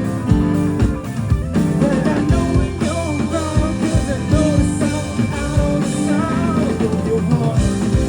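A live rock band playing an instrumental passage: electric guitar and keyboard lines over a steady drum-kit beat.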